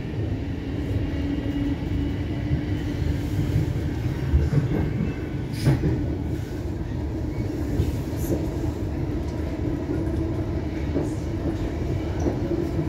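Siemens Nexas electric suburban train running along the line, heard from inside the carriage. It is a steady rumble of wheels on rail with a constant hum, and a single sharp click just before six seconds in.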